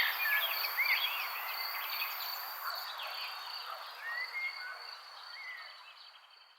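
Small birds chirping in short curved calls over a steady high insect drone and a dense background chorus, all fading out over the last few seconds.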